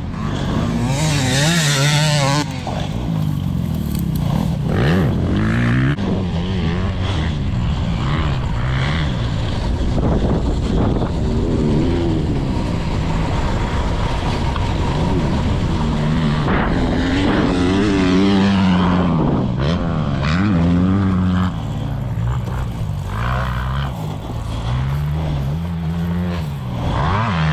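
2024 Yamaha YZ450F's single-cylinder four-stroke engine, ridden hard around a motocross track, its pitch rising and falling over and over as the throttle is opened and shut. About a second in, a short rush of noise passes over it.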